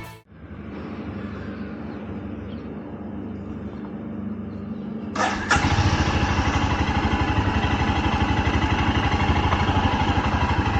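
Royal Enfield Himalayan's single-cylinder engine idling with an even, rapid pulse. It is fainter at first, then about halfway, after a click, it comes in much louder and closer.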